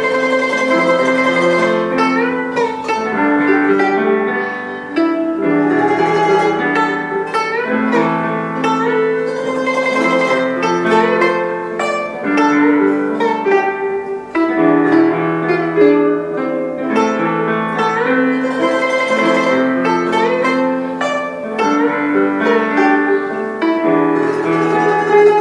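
A guzheng playing a slow, sad melody, its plucked notes sliding and wavering in pitch as the strings are pressed, over lower held notes.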